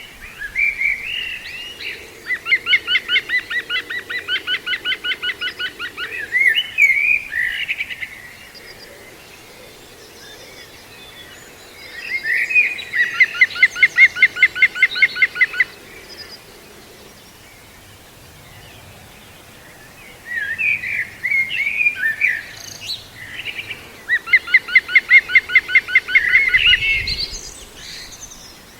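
Bird calling: three loud bouts of fast, evenly repeated notes, each lasting a few seconds, with short twittering phrases in between.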